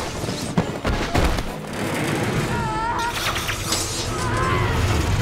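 Action-film battle sound effects: several sharp bangs like gunfire in the first second or so over a steady low rumble, then short rising-and-falling cries.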